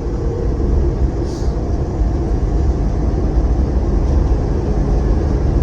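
Motorcycle riding at road speed: a steady engine drone under heavy wind rush on the microphone.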